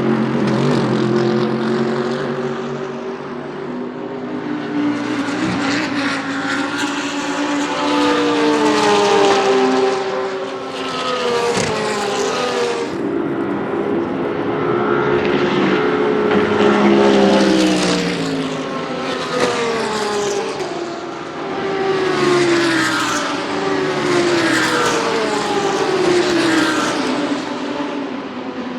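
GT3 race cars passing one after another at full throttle. Their engine notes rise in quick steps through the upshifts and drop away as each car goes by, several cars overlapping.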